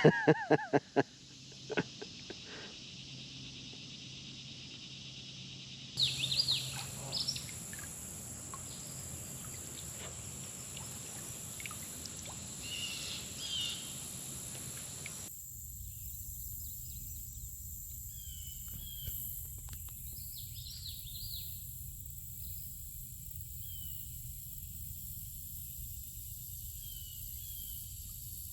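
Outdoor ambience: a steady high drone of insects with short bird chirps over it, and a few sharp clicks and knocks about six seconds in.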